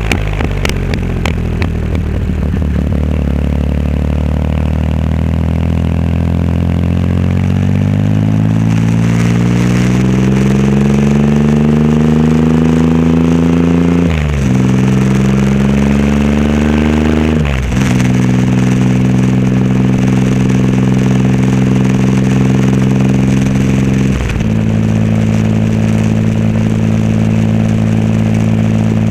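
Triumph Rocket 3 Roadster's 2.3-litre three-cylinder engine running through a custom exhaust while riding. Its note climbs steadily under acceleration, dips briefly twice around the middle, then holds an even drone.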